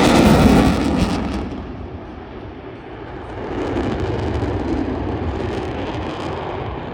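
F-35 fighter jet flying past with the loud rushing noise of its single F135 turbofan, loudest in the first second and a half, fading, then swelling again about halfway through.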